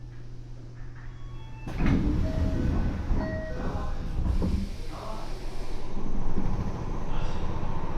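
Inside a stopped Tokyo Metro 7000 series subway car, the car's low steady hum gives way about two seconds in to the passenger doors sliding open with a sudden rush of noise. A few short beeps follow, with station noise coming in through the open doors.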